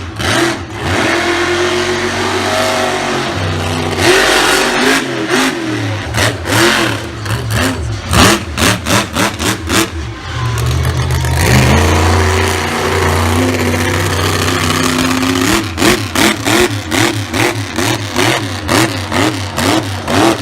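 Monster truck engine revving hard, the throttle blipped in quick repeated bursts with the pitch swooping up and down, and a steadier stretch of running in the middle.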